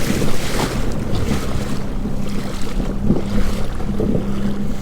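Strong wind gusting against the microphone and waves slapping at a fishing kayak, with a steady low hum underneath from about a second in.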